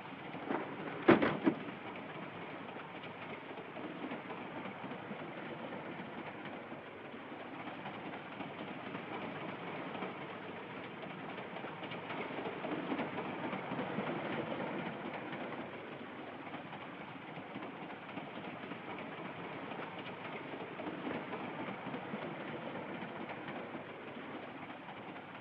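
Steady running noise of a train in motion, the carriage rumble and rattle of an old film soundtrack, with a brief sharp sound about a second in.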